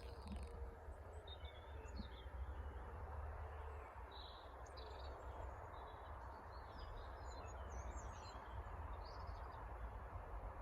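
Small birds chirping and singing intermittently, with a steady low rumble of wind on the microphone underneath.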